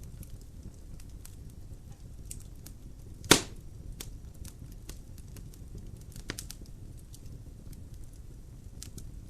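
Wood logs burning in a fireplace: a steady low rumble of flame with scattered small crackles, one loud pop a little over three seconds in and a smaller pop about six seconds in.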